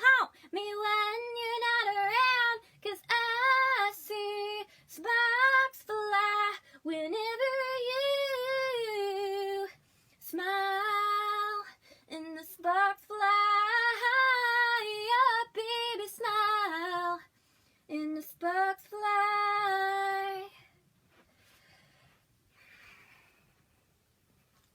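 A woman's solo voice singing a cappella, held notes and short phrases with no accompaniment, stopping about 20 seconds in; after that only faint soft rustles.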